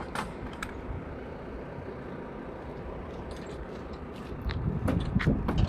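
Low, steady rumble of a semi-truck idling, growing louder about four and a half seconds in, with a few sharp clicks near the end.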